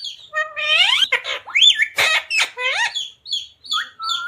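Parrot calling: a quick run of rising, bending call notes mixed with many short high chirps.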